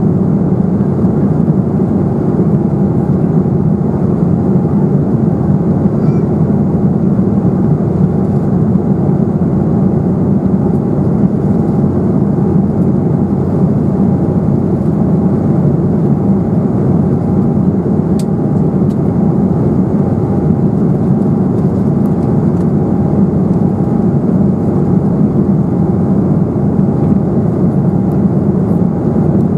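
Steady cabin noise inside an Embraer 195 airliner in flight, its wing-mounted GE CF34-10E turbofans and the airflow giving an even roar with a thin steady tone running through it.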